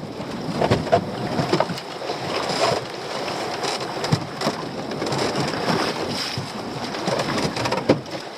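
Sea water sloshing against a small boat with wind on the microphone, broken by irregular knocks and clatter as a weed-covered lobster pot is handled on deck.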